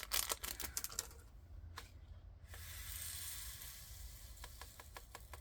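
Small plastic diamond-painting drills being handled: a few light clicks, then a steady hissing rattle for about two seconds in the middle as drills pour, followed by more scattered clicks.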